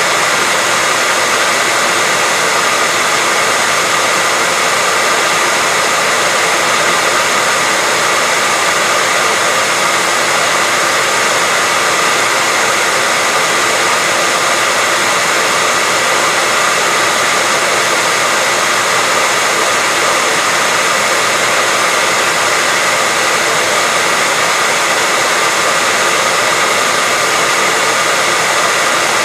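Hair dryer running steadily, a constant airy whoosh with a faint motor whine, used as white noise to lull a baby to sleep.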